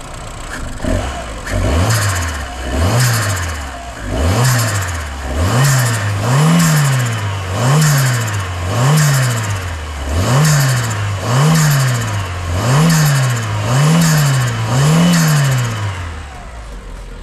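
Fiat 1.4 T-Jet turbocharged four-cylinder engine, breathing through a freshly fitted Ram Air air filter, idling and then revved in about a dozen quick blips, roughly one a second, each with a swell of intake hiss. It is running rich on a base map, which the owner remarks on.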